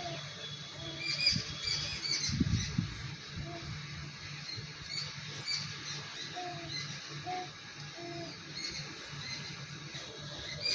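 Short high-pitched animal chirps and squeaks, repeating irregularly over a low steady hum.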